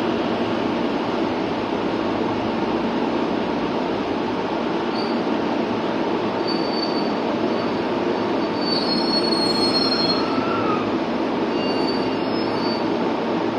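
Electric train cars moving through the station with a steady rumble, and short high-pitched wheel squeals from about five seconds in, most frequent in the second half.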